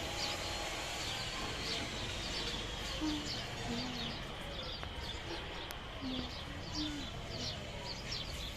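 Many small birds chirping throughout, with low cooing calls heard twice, each time as a pair, over a steady outdoor hiss.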